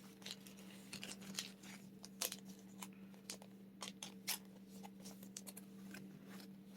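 Pokémon trading cards and foil pack wrappers being handled close up: irregular light clicks, rustles and crinkles, over a steady low hum.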